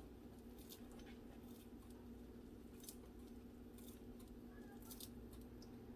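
Kitchen scissors snipping fresh cilantro, about five faint snips roughly a second apart, over a low steady hum.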